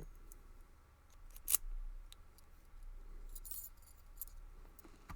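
Light metallic clicks and clinks of a brass padlock and small metal lock-picking tools being handled, with one sharper click about one and a half seconds in and a brief jingle later.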